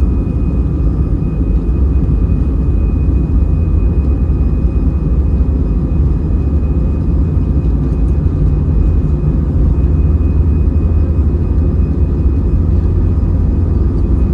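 Airbus A320's CFM56-5B turbofan engines at high thrust during takeoff, heard inside the cabin as a loud, steady low rumble with a thin, steady high whine above it.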